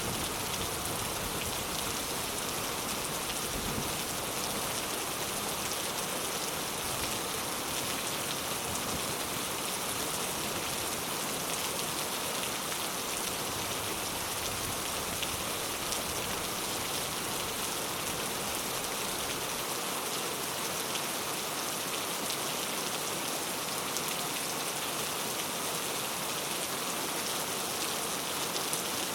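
Steady rain falling on a surface: an even, unbroken hiss of many drops, with no change in strength.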